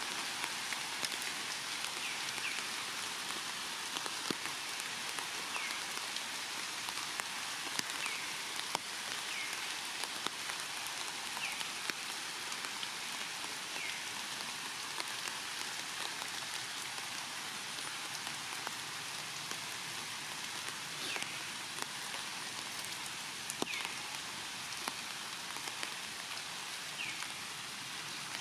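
Steady rain falling in the trees, with scattered drips, and a short high chirp repeating every couple of seconds.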